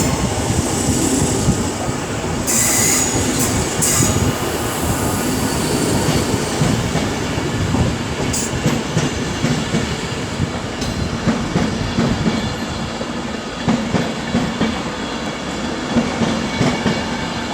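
Electric passenger train rolling slowly through the station with a steady rumble. There are brief high-pitched wheel squeals in the first few seconds and once more near the middle.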